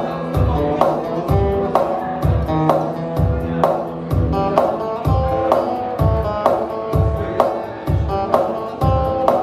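Acoustic guitar playing an instrumental passage over a steady beat of low thumps and sharp clicks.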